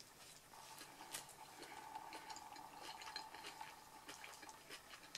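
Faint wet chewing: soft, irregular mouth clicks and squelches as a bite of grilled veggie wrap is chewed with the mouth closed.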